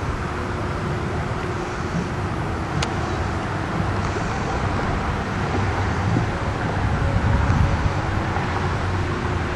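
Wind buffeting the microphone over a low, steady engine rumble that swells a little about seven seconds in.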